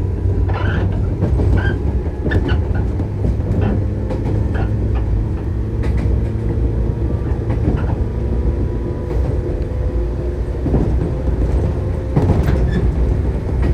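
Shinano Railway 115-series electric train running, heard from inside the car: a steady low rumble of motors and bogies with level humming tones, and scattered clicks of the wheels over rail joints.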